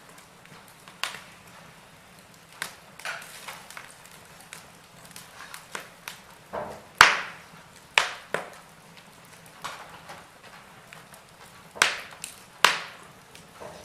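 Wood fire in a fireplace crackling: irregular sharp pops and snaps over a faint hiss, with the loudest snaps around the middle and near the end.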